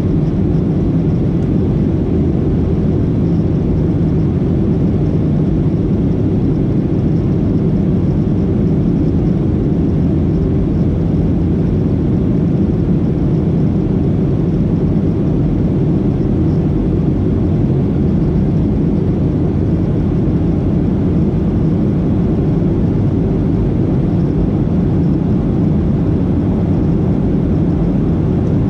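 Steady, low engine and airflow noise inside the cabin of a Boeing 737-800 with CFM56-7B turbofans, level throughout with no change.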